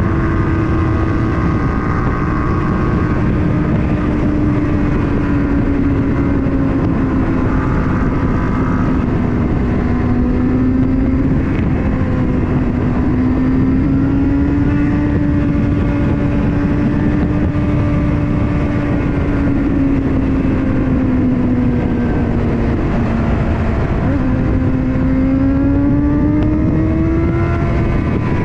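Motorcycle engine running hard under way over a steady rush of wind noise, its pitch rising and falling gently with the throttle. Near the end the pitch drops suddenly, then climbs again as the engine pulls.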